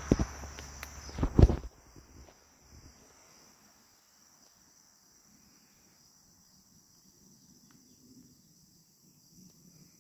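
Insects, crickets or similar, make a steady high-pitched drone. For the first second and a half there is a rushing noise on the microphone with two thumps, the second and loudest about a second and a half in. The rushing then cuts off, leaving the insects alone.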